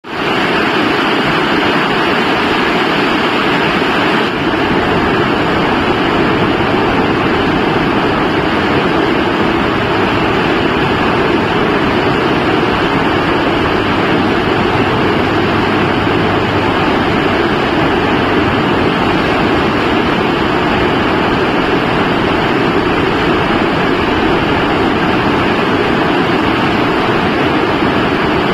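Steady, loud rain falling, an even hiss that does not let up.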